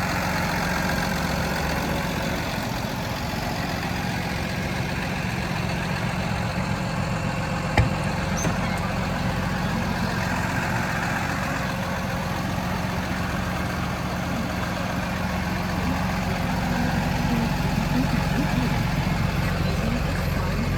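PACCAR PX-7 inline-six diesel in a Peterbilt 337 idling steadily, with a single sharp click about eight seconds in.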